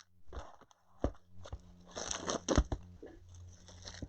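Cardboard boxes and wrapped trading-card packs being handled: irregular crinkling and rustling with a few sharp knocks, over a steady low hum.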